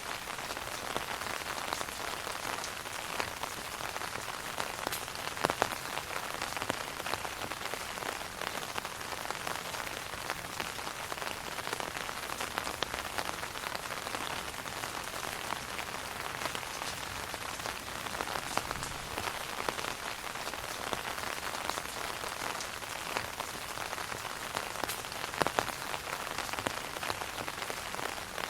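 Steady rain falling on an umbrella canopy: a dense, even hiss of drops with scattered sharper taps, and a couple of louder single drops, one about five seconds in and one near the end.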